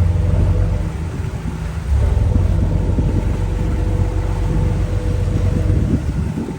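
Small harbour ferry's engine running with a steady low drone, mixed with wind buffeting the microphone; the rumble swells about two seconds in.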